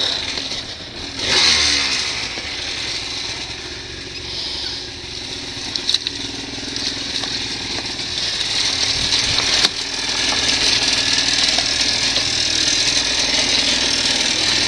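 Dirt bike engine running, with a burst of revving about a second and a half in, then a steady note that grows louder toward the end. Two sharp clicks are heard, one near the middle.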